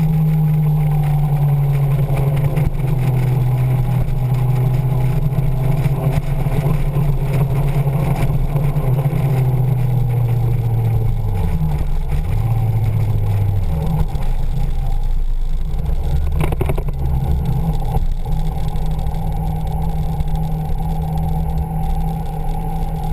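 Motorcycle engine running under way, the note holding steady, then falling as the bike slows about eleven seconds in. It picks up briefly, runs low for a few seconds, and settles back to a steady note near the end.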